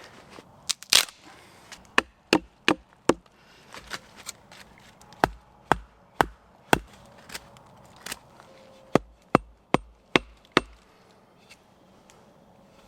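Wood being struck again and again with a hand tool: about twenty sharp, separate knocks at an uneven pace, roughly one or two a second, with the loudest about a second in.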